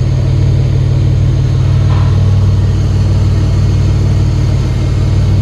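Nissan VG30DET turbocharged 3.0-litre V6 idling steadily, heard from the open engine bay.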